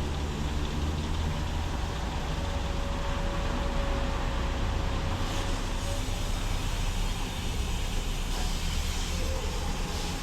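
Automatic car wash machinery running: a steady low rumble under a broad hiss, with a thin steady whine from about one to six seconds in.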